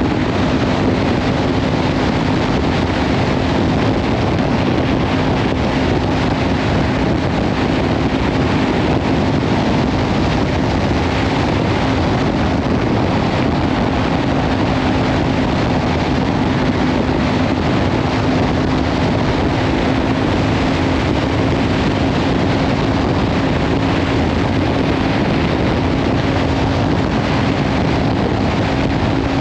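Kawasaki Ninja 500's parallel-twin engine through a Leovince slip-on exhaust, running at a steady cruise with an unchanging pitch, under heavy wind noise on the microphone.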